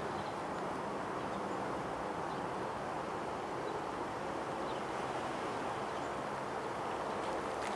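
Distant freight train rolling across a steel railway bridge: a steady rumble with a faint, even engine drone underneath.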